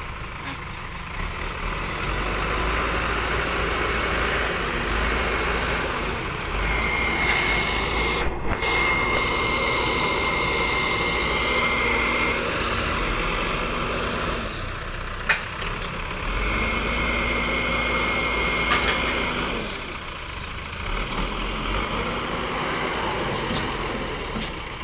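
Heavy diesel machinery engine running steadily, with a thin high whine that comes in twice for a few seconds.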